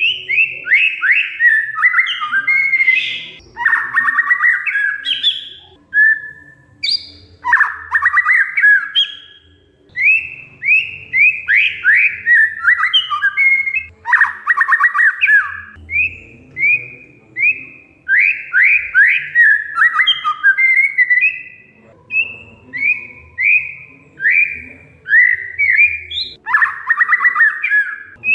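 Oriental magpie-robin (kacer) singing a continuous, varied run of short whistled phrases, broken every few seconds by a harsh, buzzy chattering note.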